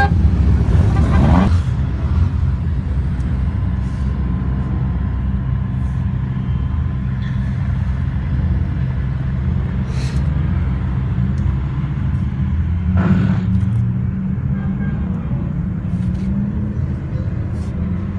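Car engine running steadily, with a rising rev about a second in and a brief louder swell about thirteen seconds in.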